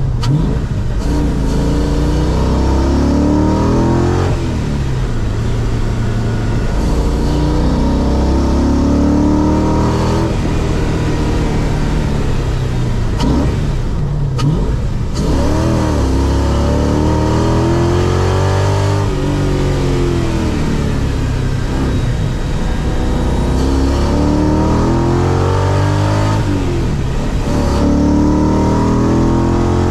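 Audi V8 swapped into a Porsche 986 Boxster, heard from inside the cabin while lapping a track: the engine revs climb and drop back again and again as the car accelerates, shifts and lifts off.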